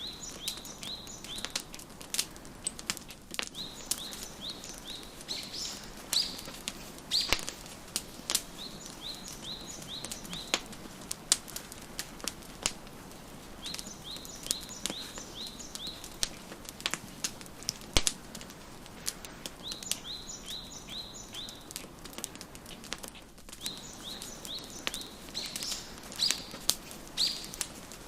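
Wood fire crackling with scattered sharp pops, the loudest sounds, over repeated phrases of quick, high bird chirps that come and go every few seconds.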